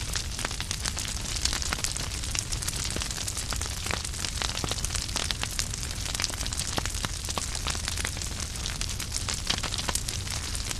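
Wood fire burning in a fireplace, with logs crackling in dense, irregular pops and snaps over a soft steady rush of flame.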